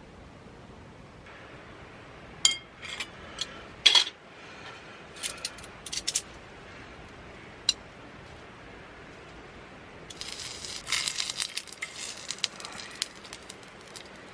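Camp tableware being handled: a handful of sharp clinks of small metal or glass items set down and knocked together, then a few seconds of denser clattering and rustling near the end.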